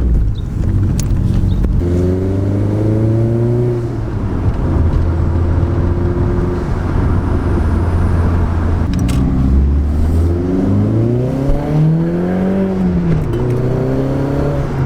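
Turbocharged car engine under way, pulling up through the revs as it accelerates, holding steady, then climbing again with a dip in pitch about two-thirds of the way through, as at a gear change. A loose turbo bolt that was causing an exhaust leak has just been retightened.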